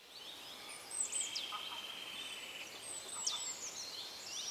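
Several songbirds singing and chirping, with quick high whistled notes and a steady trill lasting about a second and a half, fading in at the start.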